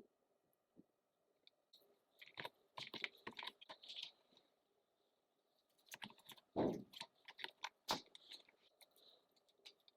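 Faint workshop handling noise: scattered clicks and knocks in two clusters, with a louder knock about seven seconds in that carries a short falling tone.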